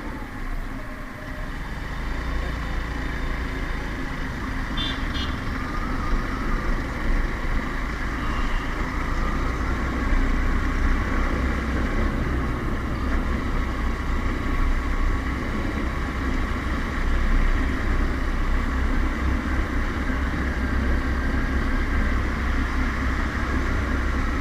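Motorcycle riding through traffic: its engine running steadily under continuous road and traffic noise.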